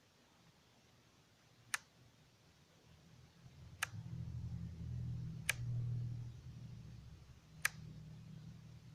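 Four sharp clicks about two seconds apart from the controls of a modified Walkera Devo 8 radio transmitter being worked, with a low hum coming in about a third of the way through.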